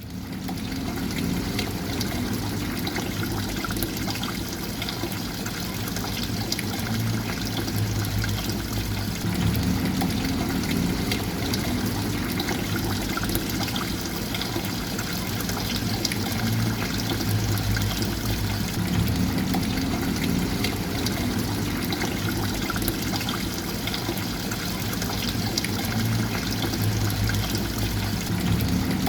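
Water flowing and trickling steadily, with a low rumble underneath.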